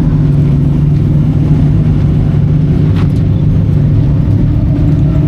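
Big-block dirt modified racing engines running loud and steady, a low rumble that changes little in pitch, with a brief tick about three seconds in.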